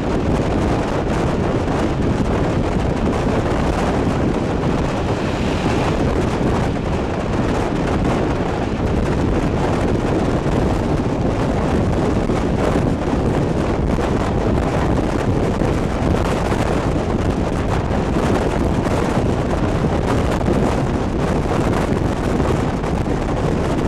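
Steady wind buffeting the microphone at an open carriage window, mixed with the running noise of a passenger train moving along the track.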